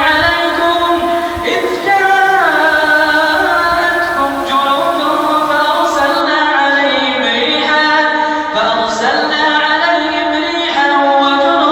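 Solo voice reciting the Quran in drawn-out, melodic chant, holding long notes that slide up and down in pitch without a break.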